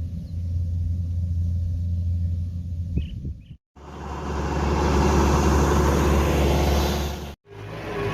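DG-105 rice combine harvester engines running with a steady low drone. The sound cuts out briefly twice, about three and a half and seven and a half seconds in, and after the first break it comes back louder and noisier.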